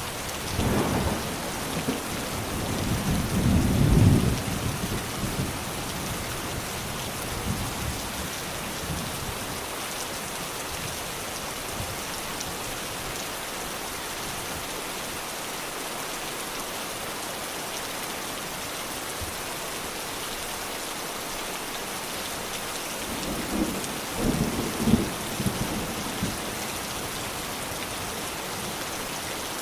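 Steady rain falling, with two rolls of thunder: one rumbling in almost at once and peaking about four seconds in, a second, shorter one a little past twenty seconds in.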